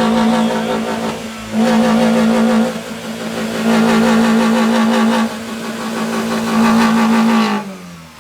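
A car engine held at steady high revs, its level swelling and dropping several times before it cuts off near the end.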